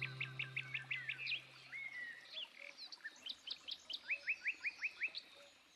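Songbirds singing: quick runs of short repeated chirps, then a series of rising notes near the end. A held music chord fades out over the first two seconds.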